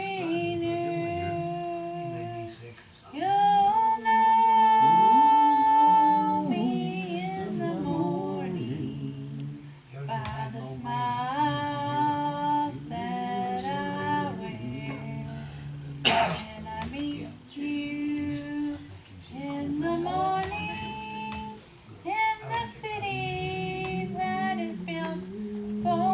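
Gospel hymn being sung, with long held notes over a steady lower accompaniment, and one brief sharp knock or click about sixteen seconds in.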